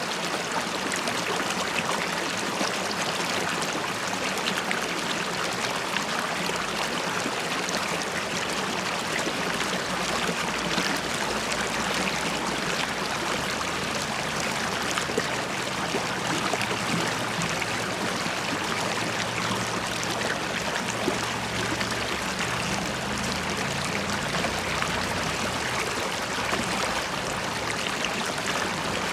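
River water flowing steadily over stones, a continuous babbling and trickling rush.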